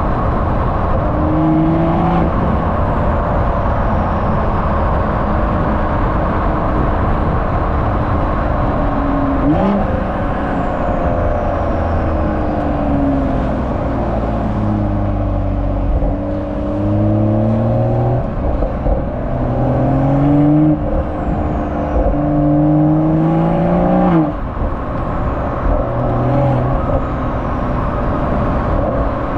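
BMW M340i's B58 turbocharged 3.0-litre straight-six exhaust under repeated short pulls, the engine pitch climbing and then stepping back down several times. About two-thirds of the way through the longest climb cuts off with a sharp crack.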